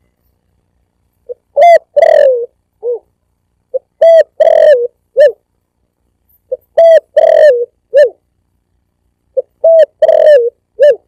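Spotted dove (tekukur) cooing: a short phrase of a few low coos, one rolled and drawn out, repeated four times about every three seconds.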